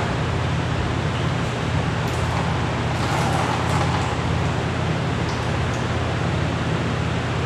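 Vacuum cleaner motor running steadily, with a couple of faint light clicks.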